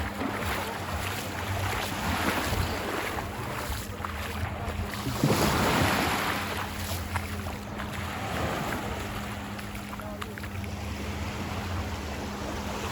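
Ocean surf washing in and out at the shoreline, swelling loudest about five seconds in, with wind buffeting the microphone and a faint steady low hum underneath.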